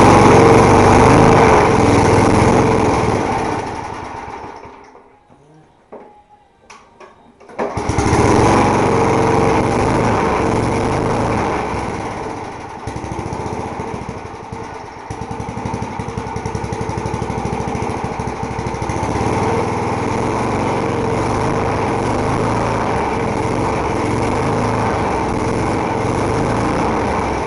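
Old lawn mower's 3.5 hp engine running, then fading and stalling about four seconds in, with a few clicks in the quiet gap. It catches again a few seconds later, runs unevenly for a while, then settles into a steady run: a hard-starting engine that takes a while to run properly.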